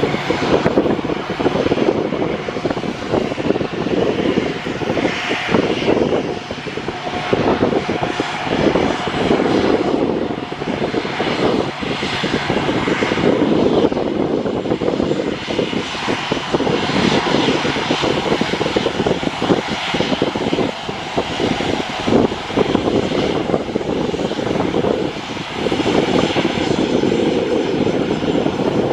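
Engine noise of an airliner, a steady, loud, dense rumble that rises and falls slightly in strength.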